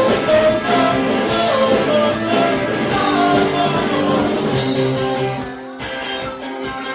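Live rock band playing an instrumental stretch of a song, led by guitar, getting quieter about five and a half seconds in.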